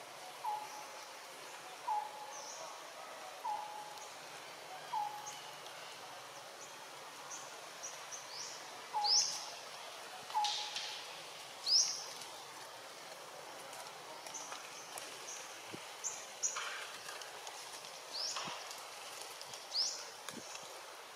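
Birds calling: a short low note repeated about every one and a half seconds through the first half, and high, upward-sweeping whistled calls scattered throughout, loudest near the middle.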